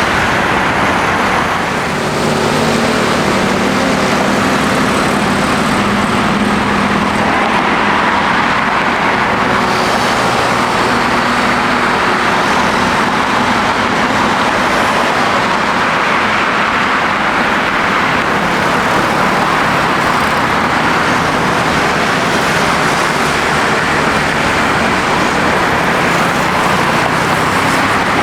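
Airbus A320 jet engines running at high power: a loud, steady rushing noise, with a low hum under it for several seconds after the start.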